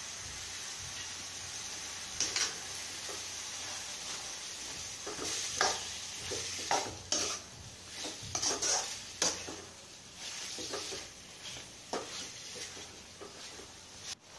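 Chicken with onion and tomato sizzling in oil in a metal pot, with a steady hiss. Over it, a metal spoon stirs in ginger-garlic paste, scraping and clinking against the pot in irregular strokes.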